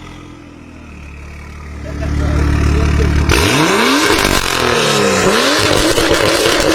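High-performance BMW car engine running at a low, steady note that swells about two seconds in. It then revs hard as the car pulls away: the pitch climbs steeply, drops at a gear change and climbs again, and the engine stays loud at full throttle.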